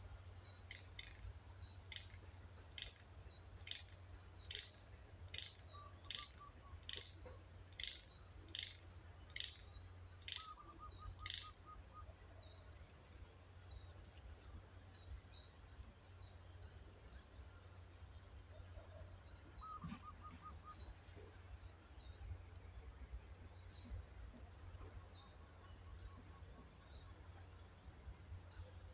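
Faint wild birdsong: one bird repeats a sharp call about twice a second for the first eleven seconds, then only scattered short high chirps remain, with a brief lower trill now and then. A steady low rumble runs underneath.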